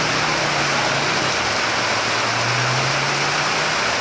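Heavy rain pouring steadily onto a flooded street, with the low hum of car engines passing, once near the start and again through the second half.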